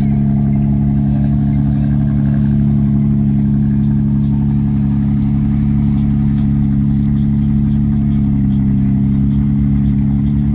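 A car engine idling steadily, close by, with an even low hum that holds the same pitch throughout.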